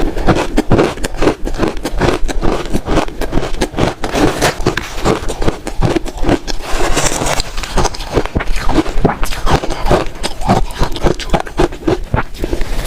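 Close-miked crunching of shaved ice being bitten and chewed: a dense, unbroken run of crackly crunches, several every second.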